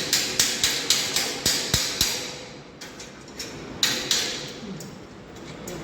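Hammer blows struck in quick succession, about four a second for two seconds, then a pause and one more blow near four seconds in.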